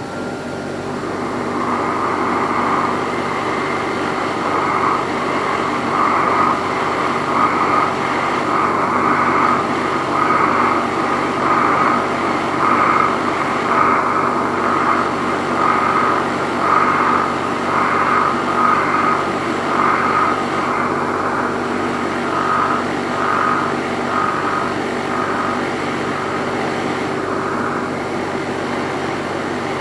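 A motor-driven brass wire wheel running steadily while it brushes carbon build-up off an engine piston. The scrubbing swells and fades about once a second as the piston is worked against the wheel, and stops near the end while the motor keeps running.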